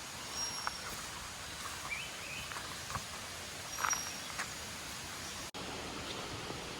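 Footsteps on a forest trail, with a few short bird chirps over a steady outdoor hiss.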